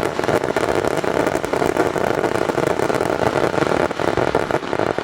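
Fireworks going off in a dense, continuous barrage of bangs and crackle, cutting off sharply at the very end.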